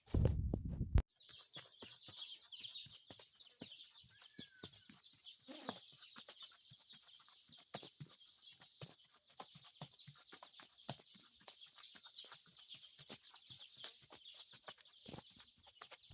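Horse walking, its hooves knocking on the ground in an irregular run of soft steps, under a steady high-pitched chorus from the surroundings. A brief loud low rumble, like wind or handling on the microphone, comes in the first second.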